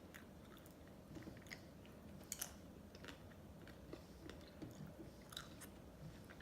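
Faint wet mouth sounds of someone eating ice cream: short lip smacks and clicks scattered irregularly, the sharpest a pair about two and a half seconds in.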